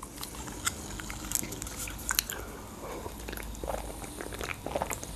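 Close-miked mouth sounds of chewing dolma: many small wet clicks and smacks. In the second half come sips and swallows of a drink from a can.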